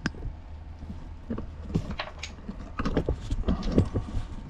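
Light clicks, clinks and knocks of small parts and hand tools being handled, a little busier about three seconds in, over a steady low hum.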